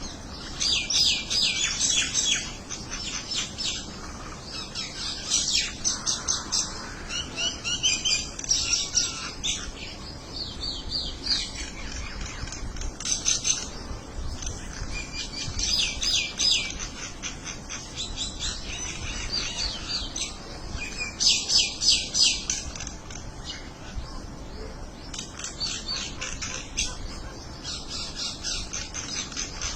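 A group of small birds chirping together in repeated bursts of rapid, high, overlapping chirps, loudest in several clusters a few seconds apart.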